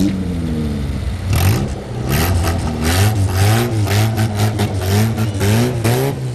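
Autocross car engines revving in repeated quick blips, the pitch rising and falling over and over, with harsh noisy bursts on the blips from about a second and a half in.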